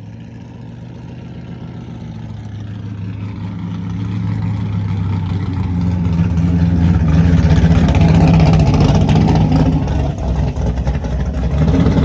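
Car engine growing steadily louder over about seven seconds, then staying loud through the rest.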